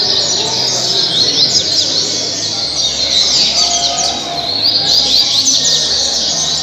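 Double-collared seedeater (coleiro) singing a rapid run of high, quick notes, with a short break about four and a half seconds in before the song picks up again.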